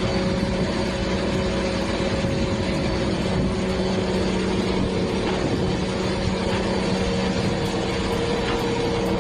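A heavy engine running steadily at a constant speed, a continuous low hum with noise over it and no changes in pitch.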